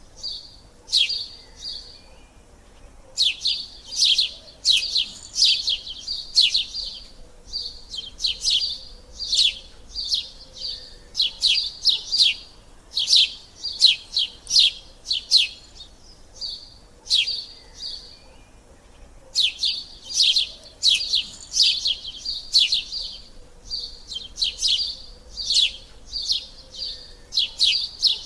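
Sparrows chirping: clusters of short, quick chirps, several a second, broken by brief pauses.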